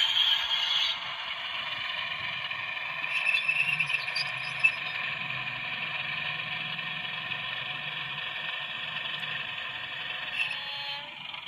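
OO gauge model train running along the layout: a steady whirr of the locomotive's motor and wheels on the rails, with a few clicks and rattles, one sharp click a little before halfway.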